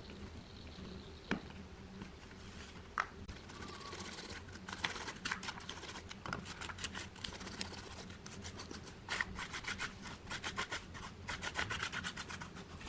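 Rust being rubbed off metal by hand with an abrasive, in quick back-and-forth scraping strokes that come in runs of about five a second. A few single clicks come first.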